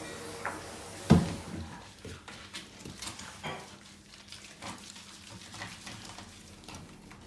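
Water splashing and dripping as a Bengal cat is bathed, with a loud thump about a second in, then scattered small splashes and knocks.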